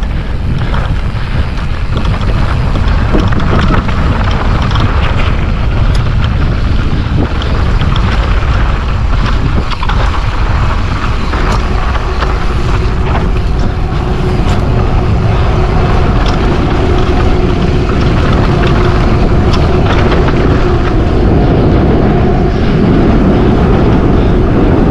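Wind buffeting an action camera's microphone during a fast mountain-bike descent, with the bike rattling and clicking over bumps in the trail. A faint steady whine joins about twelve seconds in and fades out about ten seconds later.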